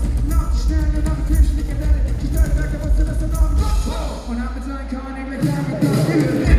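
Live concert music over a loud PA, with a heavy beat and melodic lines. The drums drop out about four seconds in, leaving a held bass, and come back shortly before the end.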